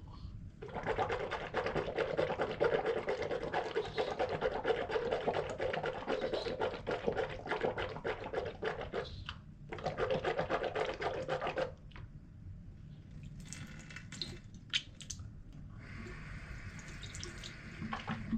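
A person gargling water: one long, steady bubbling gargle of about eight seconds, a brief pause, then a second short gargle of about two seconds. After it come quieter wet clicks and splashes.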